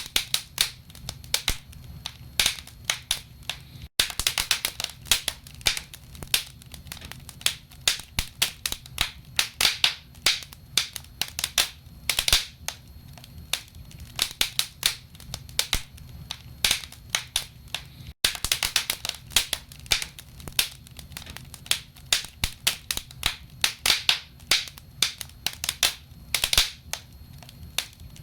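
Wood fire burning in a fireplace: logs crackling and popping in a dense, irregular stream of sharp snaps over a low steady rumble.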